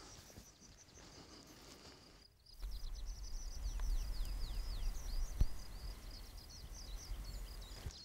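A small bird singing a rapid run of short, high notes, each falling in pitch. The song starts about two and a half seconds in over a low rumble, with a single knock about five and a half seconds in.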